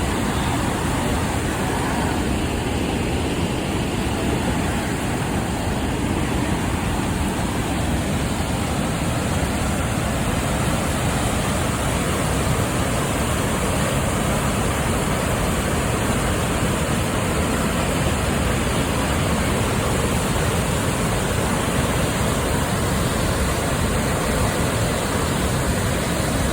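A waterfall rushing: a steady, unbroken noise of falling water with no change throughout.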